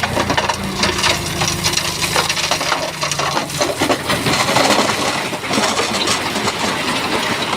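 Stones clattering and grinding against each other as a Shantui bulldozer pushes a load of big rock, with the dozer's diesel engine running steadily underneath for the first few seconds.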